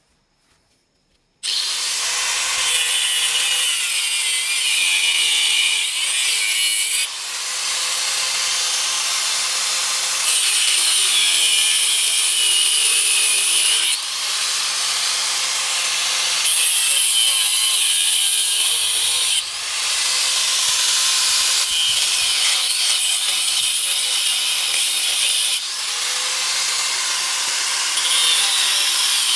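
A handheld power tool running under load, abrading a surface with a steady rasping noise and a wavering pitch. It starts about a second and a half in and jumps in level every few seconds, as if cut together from several short takes.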